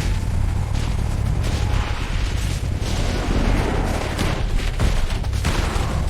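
Dense action sound effects for a cartoon battle: a continuous heavy rumble with rapid crackling hits, like a barrage of gunfire and explosions.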